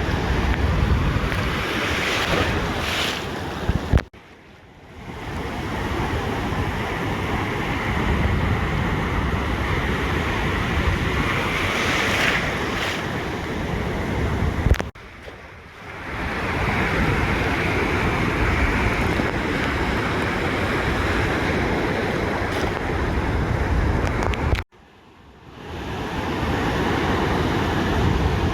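Ocean surf washing on a beach, with wind rumbling on the microphone. The sound cuts out abruptly three times and fades back in over about a second each time.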